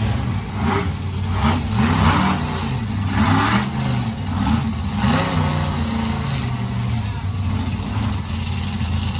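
Monster truck engine revving, its pitch climbing and falling again several times in quick succession.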